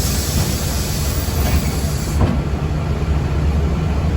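Steady low rumble inside a moving city public-transport vehicle. A high hiss begins at the start and lasts about two seconds, then stops with a short knock.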